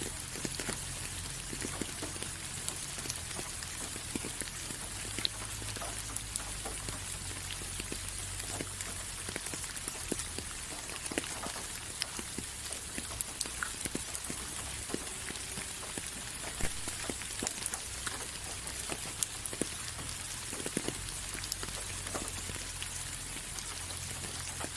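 Steady rain falling, many separate drops ticking sharply at random over an even hiss, with a low steady rumble underneath.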